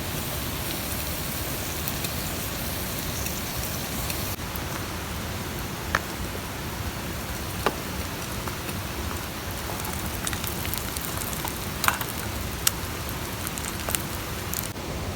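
Steady rushing noise, like a mountain stream, with a handful of sharp pops from a wood campfire crackling.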